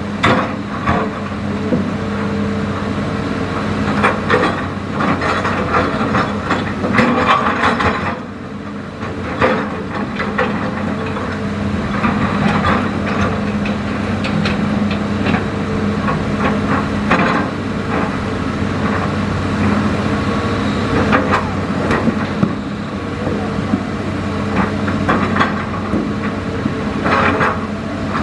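Hitachi Zaxis excavator's diesel engine running steadily, with repeated irregular clanks and scrapes from the bucket working in the riverbed.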